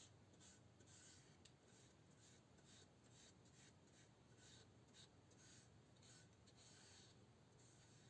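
Faint, rhythmic rubbing strokes of a hand working a surface, a few strokes a second, each a short scratchy swish.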